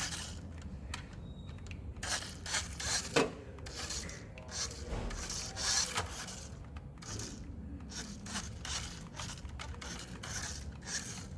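Tiny electric motor and gears of a 1/32-scale Nikko toy RC car whirring in short bursts as it is driven back and forth on a tabletop, with its wheels scraping the surface and a sharp click about three seconds in.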